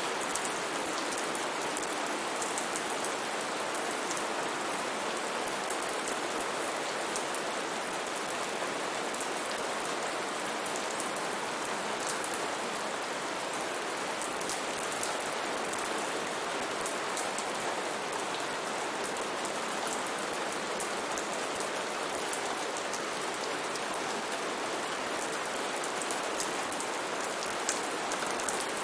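Steady heavy rain falling on foliage and surfaces, a constant hiss with many sharp individual drop ticks.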